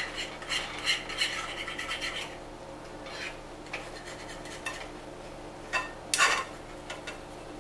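A cooking utensil stirring and scraping eggs in a pot with rapid strokes for about two seconds, then stopping; after that, only a few scattered scrapes and knocks, one louder scrape near the end.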